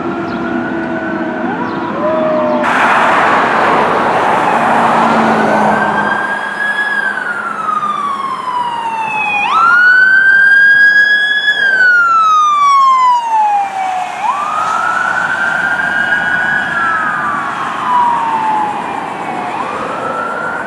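Fire truck siren wailing as the truck responds: each cycle climbs sharply in pitch, holds briefly, then falls slowly, repeating every four to five seconds. A noisy stretch of engine and road sound comes a few seconds in.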